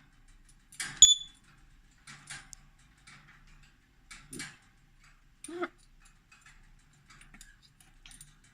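African grey parrot making short clicks and soft chirping sounds, with one sharp, loud click carrying a brief high whistle about a second in.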